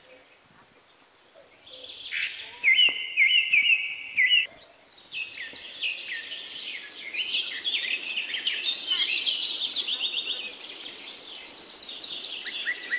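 Songbirds singing: a quick phrase of repeated chirps about two seconds in, then several birds chirping together, with a high, fast trill near the end.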